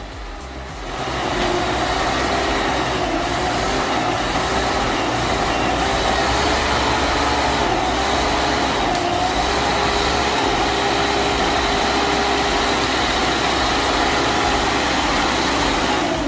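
LKT 81 Turbo skidder's turbo diesel engine running hard under heavy load, its note wavering slightly up and down. It comes in about a second in and then holds steady and loud.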